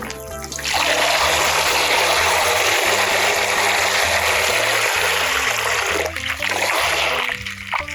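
Water running in a steady rush that starts just under a second in and stops about six seconds in, over background music with a simple bass melody.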